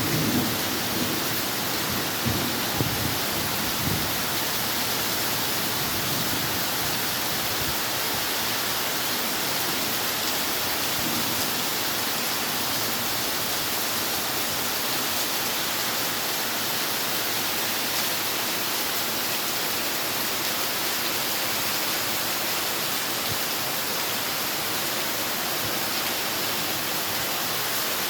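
Heavy rain squall pouring down as a steady, even hiss, with a few low thumps in the first few seconds.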